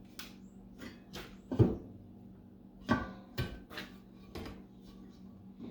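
A series of sharp metal knocks and clanks, about eight at uneven intervals, as the cast aluminium gearbox housing is struck and worked to free it. The loudest comes about one and a half seconds in.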